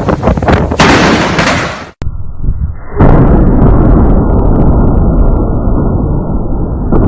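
Thunder from nearby lightning strikes: a sudden loud crack about a second in over wind on the microphone, then, after a cut, a heavy, low rolling rumble that carries on.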